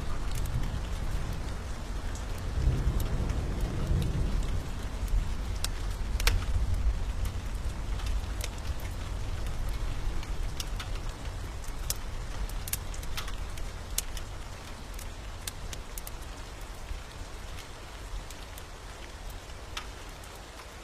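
Steady rain with a low rumble of thunder that is strongest in the first few seconds and slowly dies away, while a wood fire gives scattered sharp crackles.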